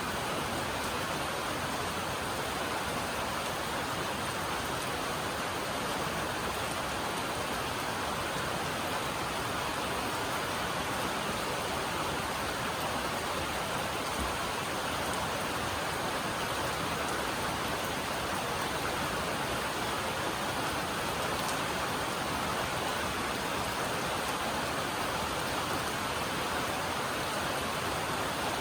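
Steady heavy rain drumming on a metal roof, a dense even hiss of drops.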